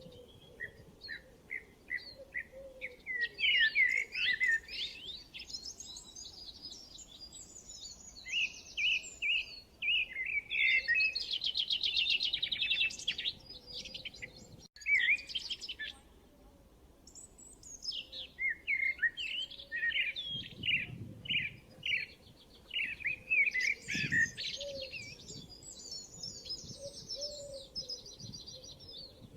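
Several songbirds chirping and singing in runs of quick, high notes and trills, with a dense rapid trill a little before the middle. There is a momentary dropout about halfway through.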